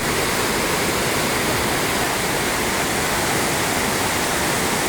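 Swollen, flooding river rushing steadily, a loud continuous roar of fast water.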